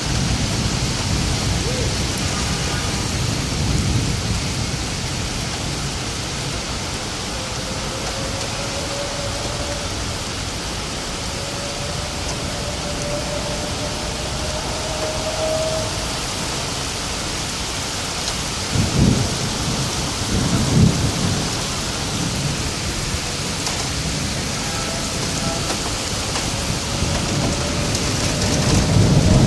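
Heavy rain falling steadily in a thunderstorm, with low rumbles of thunder and two louder thunder rumbles about two-thirds of the way through.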